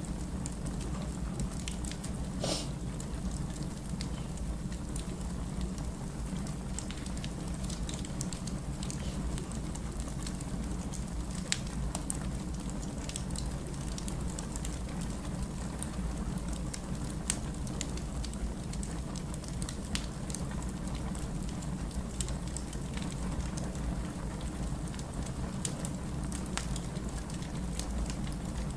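Firewood burning in a fireplace: a steady low rumble with scattered crackles and pops, one louder pop about two and a half seconds in.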